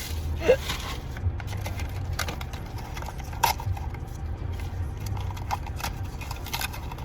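Scattered clicks and rustles of plastic blind-box packaging and small toy pieces being handled. The sharpest clicks come about half a second in and again about three and a half seconds in, over a steady low rumble.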